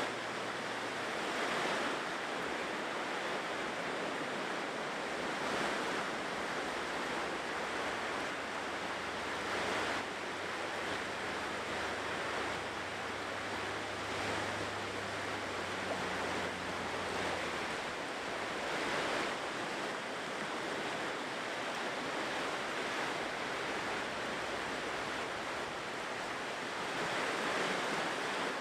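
Ocean surf washing onto a shore: a steady rush of waves that swells every few seconds.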